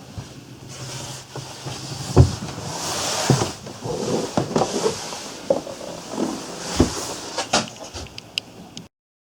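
Several sharp knocks and bumps over a hissing background, the loudest about two seconds in and again near seven seconds, the sound cutting off abruptly near the end.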